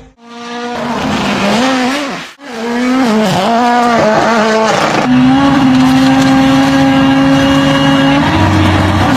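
Rally car engine revving hard, its pitch swinging up and down, then held steady at high revs for the last few seconds. The sound drops out briefly twice, near the start and about two seconds in.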